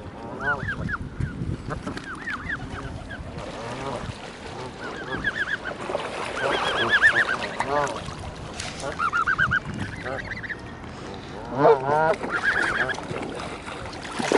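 Geese honking in a flock: many short, arching honks from several birds, bunched in quick bouts, loudest a little past halfway and again near the end.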